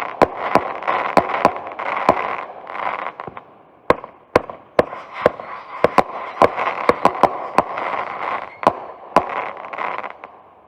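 Consumer aerial fireworks going off: a string of sharp reports, about two a second with a short lull around three seconds in, over dense crackling, dying away near the end.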